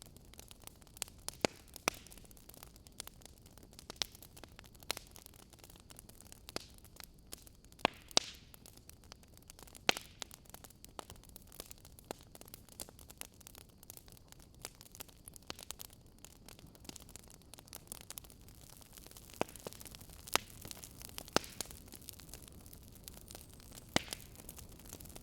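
Wood fire crackling in a fireplace: irregular sharp pops and snaps, a few every couple of seconds, over a steady low hiss.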